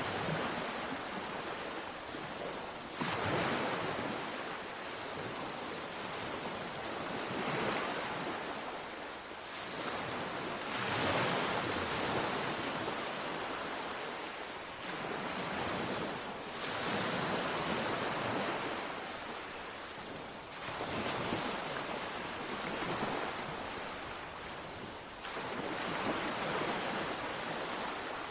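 Sea waves breaking and washing ashore in steady surf, each wave swelling up every four to five seconds and falling back.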